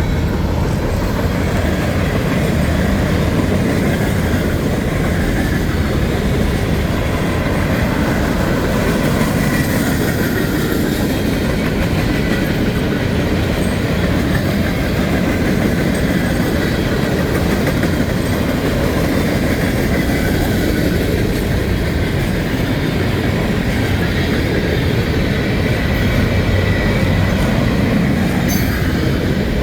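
Railroad cars rolling steadily past at close range: a continuous heavy rumble with clickety-clack of wheels over the rail joints and a faint, thin squeal of wheels.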